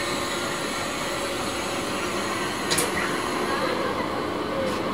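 Electric multiple-unit local train moving off from the platform: a steady hum and whine from its electric traction equipment over a rolling noise, with one sharp click about halfway through.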